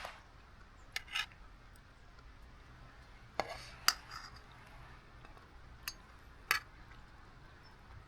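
Camp cookware and utensils being handled: about six short clinks and clicks, the loudest a little before four seconds in.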